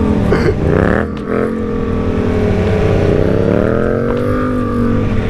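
BMW S1000R's inline-four engine heard from the rider's seat while cruising. The revs dip sharply about half a second in and climb back, then fall and rise again more slowly, over a low rumble of wind and road.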